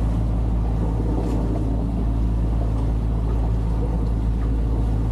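A sailing yacht's engine running at a steady speed: a constant low drone.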